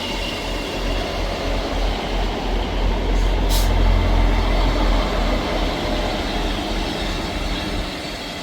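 Diesel train running at a station platform: a heavy, steady low rumble of engine and wheels that grows to its loudest about four seconds in, then eases off. A brief sharp click comes about three and a half seconds in.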